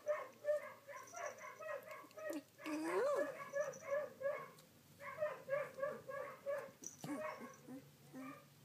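Sixteen-day-old rough collie puppy whimpering in quick runs of short, squeaky cries, about three or four a second, with one longer cry rising and falling in pitch about three seconds in.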